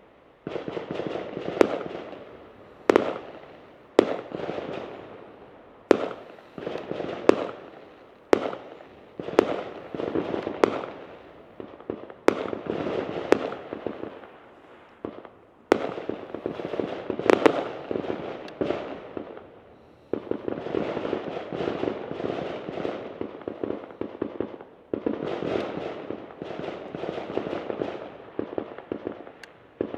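Fireworks going off: a run of sharp bangs every second or two, each followed by crackling that fades, with longer stretches of steady crackle later on.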